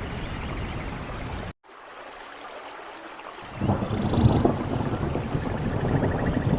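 Steady rain with a low rumble of thunder. The sound cuts out abruptly for an instant about one and a half seconds in, comes back quieter, then the low rumble swells louder from about three and a half seconds on.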